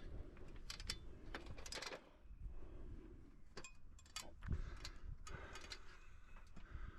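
Footsteps and clicks of a person climbing down a ladder and walking off: irregular knocks, several a second, with a few heavier thuds.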